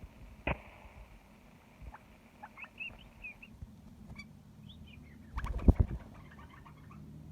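Pet canary chirping and twittering in short warbled notes, with a brief cluster of loud knocks about five and a half seconds in.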